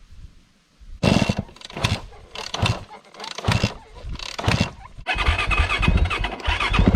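A KTM dirt bike's engine being started: it turns over in about five short bursts, then catches about five seconds in and keeps running steadily. The bike had been flooded and is running poorly.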